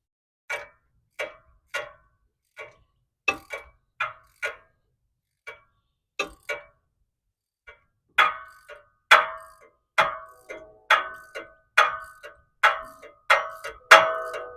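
Ratchet wrench clicking as a stubborn spark plug is worked out: sharp, ringing metal clicks, scattered at first, then louder and steadier at about one a second from about halfway through.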